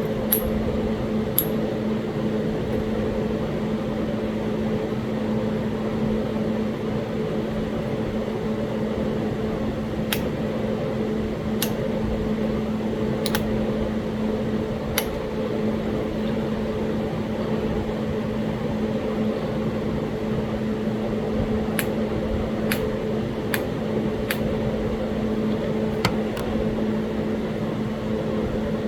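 Flintknapping on Talahata quartzite: about a dozen sharp clicks of stone being flaked, one at a time with long pauses, bunched near the start, in the middle and late on. A steady low hum runs under them throughout.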